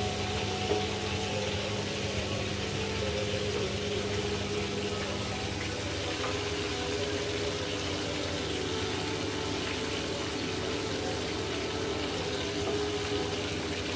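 Fish sizzling steadily as they fry in hot oil in a pan, with a low steady hum underneath.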